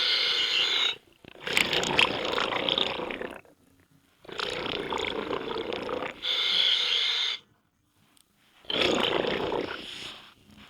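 Scuba diver breathing through a regulator underwater: hissing inhalations alternating with rumbling bursts of exhaled bubbles, with short pauses between breaths.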